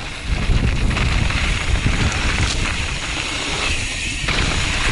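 Mountain bike descending a rough dirt trail at speed, heard from a helmet-mounted camera: wind buffeting the microphone over the rumble and rattle of tyres, chain and frame on the ground.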